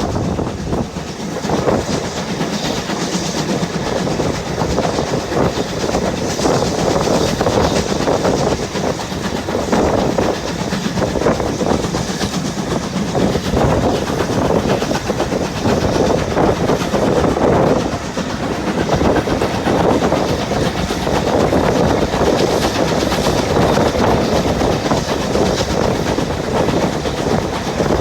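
A railway train running along the track: steady, continuous wheel-on-rail and carriage running noise.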